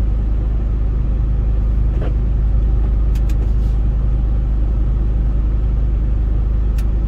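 Semi-truck diesel engine running steadily at low speed, a deep even rumble, with a few faint clicks.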